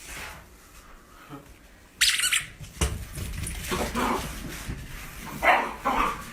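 A pet animal's short squeaky calls, with a sudden hissy rush of noise about two seconds in.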